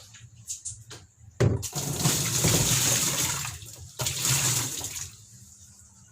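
Water gushing and splashing in two spells, one from about a second and a half in and a shorter one at about four seconds, as washing machine parts are rinsed of dirt.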